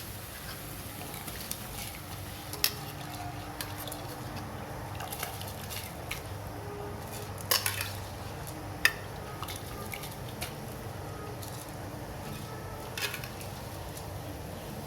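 A metal utensil knocks and scrapes against a pot a few times while rice is stirred into boiling water, with a steady low background noise underneath.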